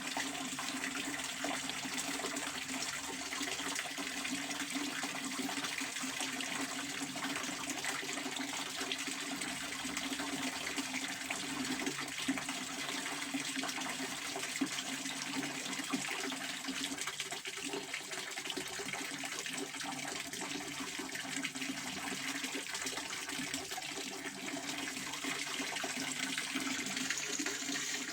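Pond water fountain splashing steadily, its falling spray making an even, continuous rush of water.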